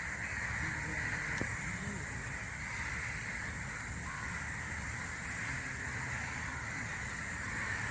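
Steady outdoor forest ambience: an even high hiss over a low rumble, with one faint click about one and a half seconds in.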